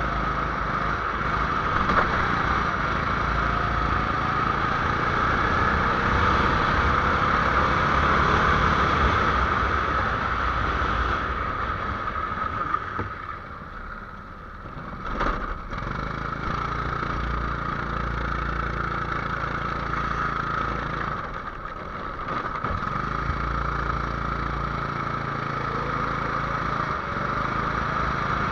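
A small 270cc engine running under load. Its sound drops away twice, a little past halfway through and again about three quarters through, and picks back up each time, as it would when the vehicle slows and then accelerates again. There is one sharp knock just after the first drop.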